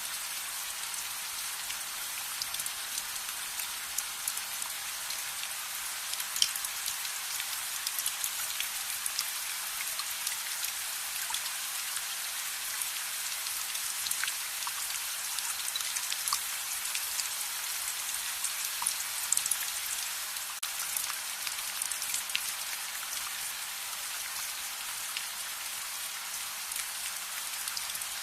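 Steady rain hiss with many scattered sharp ticks and pops.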